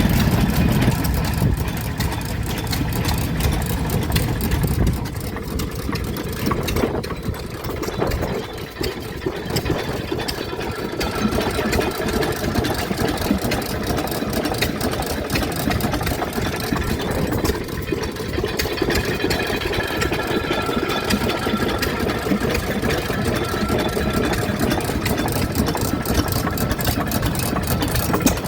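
Vintage stationary engines running, a dense, steady run of rapid firing beats whose mix changes a few times, heavier in the low end over the first few seconds.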